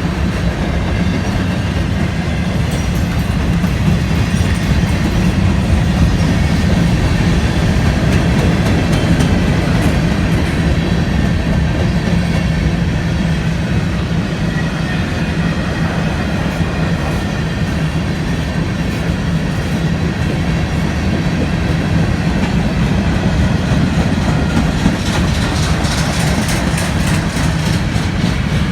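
A long train of railcars rolling past, with a steady heavy rumble and the clickety-clack of wheels over rail joints, which grows more distinct near the end.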